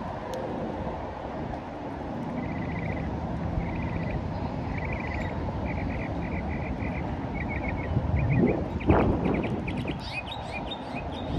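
Birds chirping in short, rapid trills repeated about once a second, over a steady low outdoor rumble. A louder swell rises and falls about nine seconds in, followed by scattered higher chirps.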